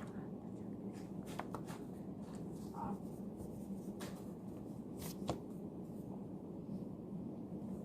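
Pen or pencil writing on paper, with a handful of short light clicks and taps, over a steady low room hum.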